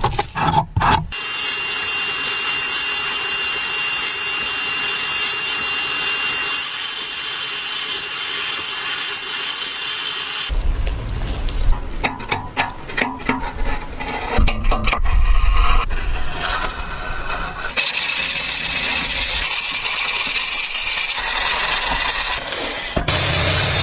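Power-tool and surface work noise in several cut-together segments: a long steady hissing run, then a stretch of low rumble with knocks and clicks, then steady hissing again.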